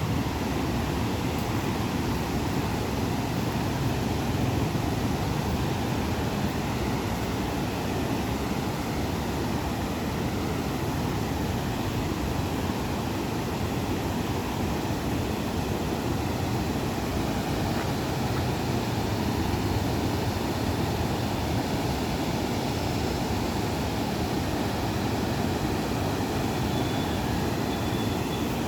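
Steady rushing noise with a low rumble, unbroken throughout.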